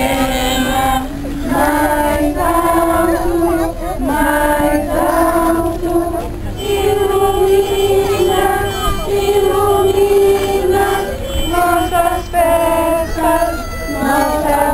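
A group of children and women singing a song together, moving through a melody in held notes of about a second each.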